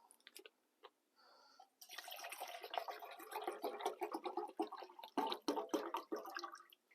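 Water being poured from a bottle into a canteen for coffee. It pours in a rapid, irregular splashing stream that starts about two seconds in and runs for about five seconds.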